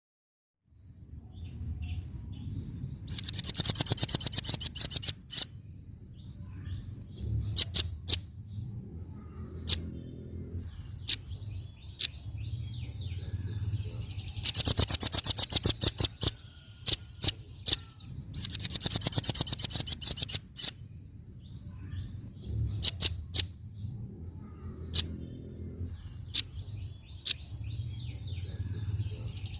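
Velvet-fronted nuthatch (red-billed nuthatch) calling: rapid, very high-pitched trills in bouts of about two seconds, with single sharp chirps between them, over a steady low rumble.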